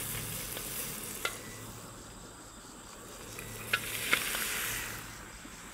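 Halved mud crabs sizzling in hot oil with garlic and shallots in a wok, with a few sharp clicks.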